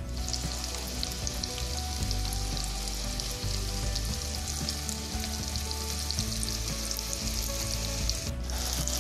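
Banana slices sizzling steadily in hot butter in a pan, with fine crackles through the hiss.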